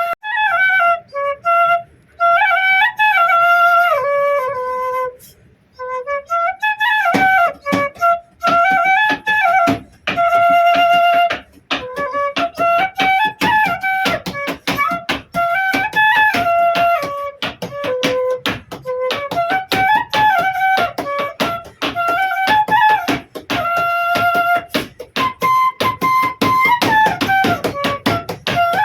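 Bansuri (Indian bamboo flute) playing a folk melody in rising and falling phrases. From about seven seconds in, a rapid rhythmic tapping accompanies it.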